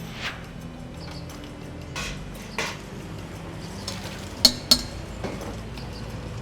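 Cutlery clinking against a dish: a handful of separate sharp clinks. The two loudest come close together about four and a half seconds in, over a low steady background hum.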